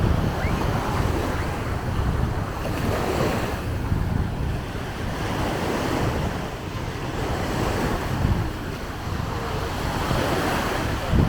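Small sea waves breaking and washing up a sand beach, swelling every few seconds, with wind rumbling on the microphone.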